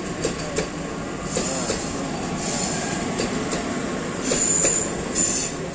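Passenger train running, its wheels squealing against the rails several times in short high-pitched bursts, with sharp clicks from the track over a steady rumble. Wheel squeal of this kind comes from flanges rubbing on tight curves, such as those of a mountain ghat line.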